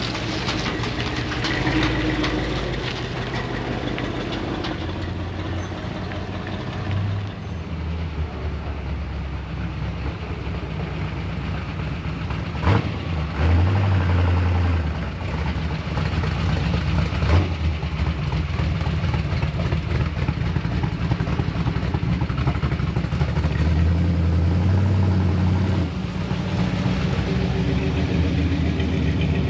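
Truck engines idling and running, the low rumble swelling twice, with two sharp clicks in the middle.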